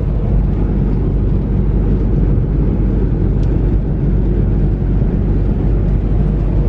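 Semi truck driving at road speed: a steady, even rumble of engine and road noise.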